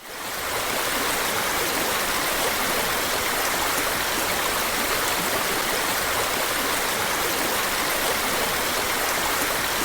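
Baby sound machine's small speaker playing a steady rushing-water stream sound, fading in over about half a second and then holding even.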